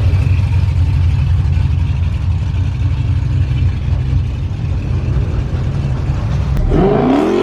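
Steady low rumble of a car in traffic, heard from inside the cabin. Near the end a loud, rising pitched sweep comes in and cuts off suddenly.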